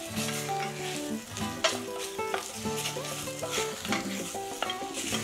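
Wooden spoon stirring cod tripe, chorizo and ham as they sauté in their fat in a stainless steel saucepan: a light sizzle with a few scrapes of the spoon against the pan. Background music plays underneath.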